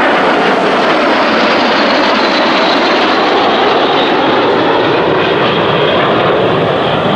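Formation of Aero L-39 Albatros jet trainers flying past, their single-turbofan engines making a loud, steady jet noise.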